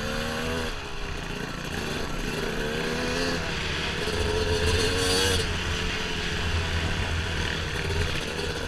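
Dirt bike engine under way, revving up and easing off again and again with the throttle, its pitch climbing in stretches and loudest about five seconds in, over a steady rushing noise.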